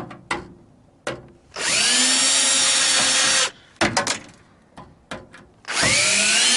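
Power drill/driver backing out screws from a microwave's sheet-metal casing: two runs of about two seconds each, the motor whining up to speed each time, with clicks of the bit and handling in between.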